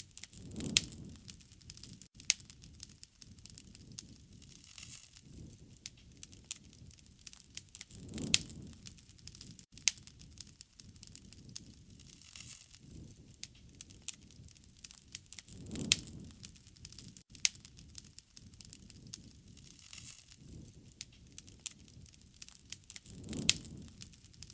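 Wood fire crackling with frequent sharp pops and snaps, and a soft low rush of flame swelling up about every seven and a half seconds.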